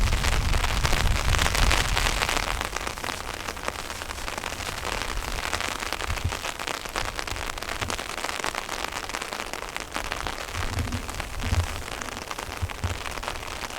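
Steady rain falling, a dense patter of drops, heaviest in the first couple of seconds.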